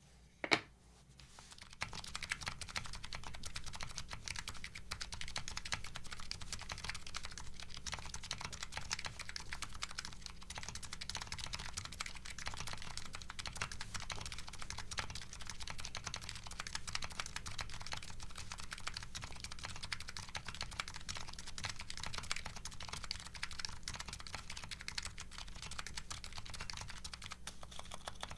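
Continuous fast typing on a Nuxros Kraze custom keyboard with MetaKeebs MetaPulse electro-capacitive dome switches and DCS Sleeper keycaps: a steady stream of key clacks, after a couple of single key presses in the first second.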